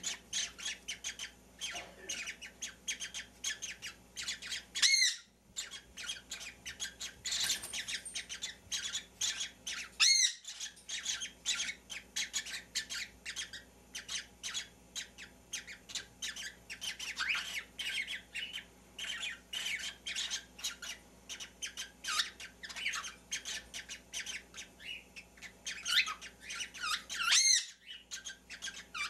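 Baby birds chirping and squawking continuously: rapid, high-pitched short calls several a second, with a few louder, longer calls about five, ten and twenty-seven seconds in.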